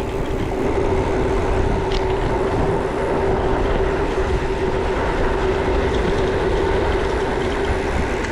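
A bicycle rolling fast down a hill, with wind rushing over the microphone and a steady whirring hum from the moving bike.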